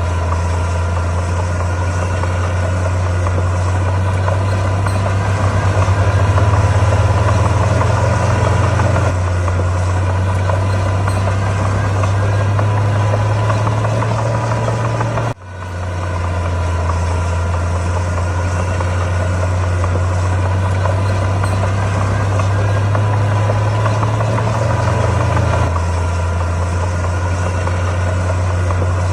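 Komatsu D41P bulldozer's diesel engine running steadily, its deep hum shifting slightly in pitch now and then with load, with a brief sudden drop about halfway through.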